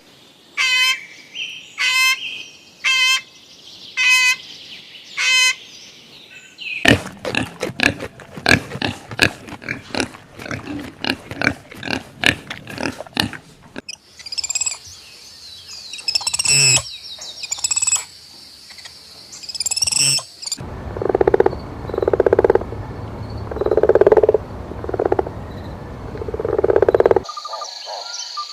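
A sequence of different animals' calls, one kind after another. It opens with five pitched calls about a second apart, then a fast run of clicking calls, then high chirps, then a series of lower calls. A steady high buzz starts near the end.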